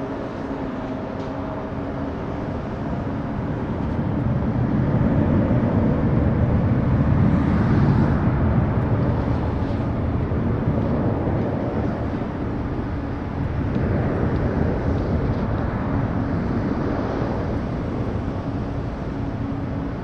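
Jet noise of a Boeing 737-800 airliner's CFM56 turbofans as it passes: a broad rushing sound that swells about five seconds in, peaks around eight seconds, eases, then swells again around fourteen seconds.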